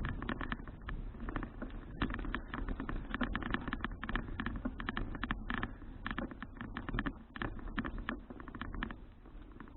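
Irregular rapid clicking and rattling from a bicycle in motion over a bumpy surface, with a low wind rumble on the microphone.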